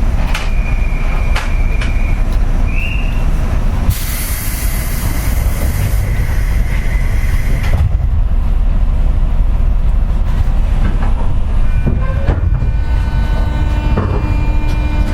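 Inside a JR West 201-series electric train's motor car: a steady low rumble, a loud hiss of air for a few seconds in the middle, and steady whining tones from the traction equipment that set in near the end.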